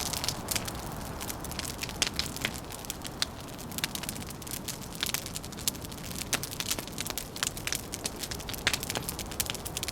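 Wood fire crackling, with many irregular sharp pops and snaps over a steady low background rush.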